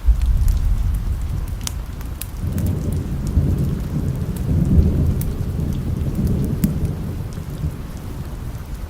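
Steady rain with scattered sharp drips, under a long rolling thunder rumble. The rumble comes in suddenly at the start, builds and swells through the middle, and eases off near the end.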